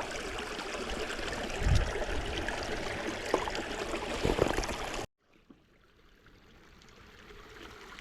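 Steady rushing of flowing creek water, with a couple of low thumps about two and four and a half seconds in. About five seconds in the sound cuts off suddenly to near quiet, then slowly comes back up.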